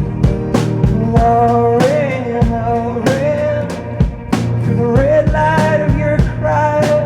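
Live indie folk band playing: a drum kit keeps a steady beat under bass and guitar, with a held melody line above.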